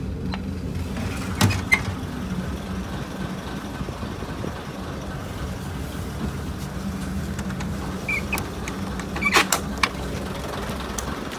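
Heritage diesel train running slowly, a steady low drone with a few sharp clicks and knocks, one pair about a second and a half in and a cluster near the end.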